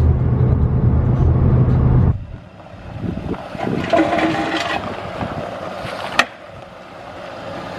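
Steady low rumble of a pickup truck driving, cut off suddenly about two seconds in. After that come quieter, irregular outdoor sounds, with a sharp click near the end.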